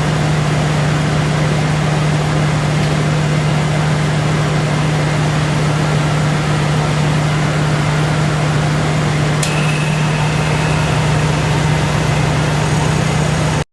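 1995 Ford Bronco's engine and AC compressor running steadily with a constant hum, the compressor driven through its newly replaced clutch. A single sharp click comes about nine and a half seconds in, and the sound stops suddenly at the end.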